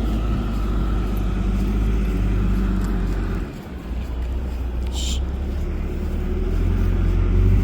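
Tractor engine running with a steady low rumble that dips briefly about three and a half seconds in. A brief high-pitched sound cuts in about five seconds in.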